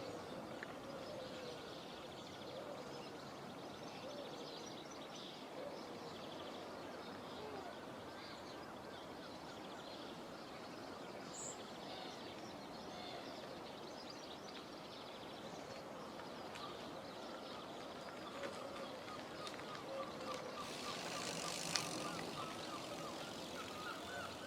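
Faint outdoor background with distant birds chirping. A brief louder rustle with a sharp click comes about 22 seconds in.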